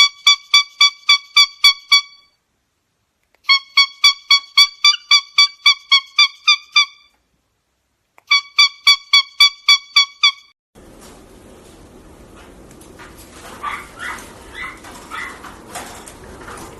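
Loud, rapid beeping: three runs of identical short pitched beeps at about five a second, each run lasting two to three seconds. After the runs stop, a few softer chirping calls sound over a steady background hiss.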